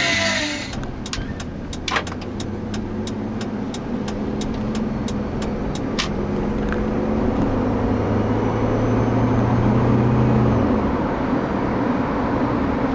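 The Jeep Liberty's V6 engine, heard from inside the cabin, pulls steadily up through the revs as the SUV accelerates, then eases off suddenly near the end as the throttle is lifted. Over the first few seconds there is a quick, regular ticking, about three ticks a second.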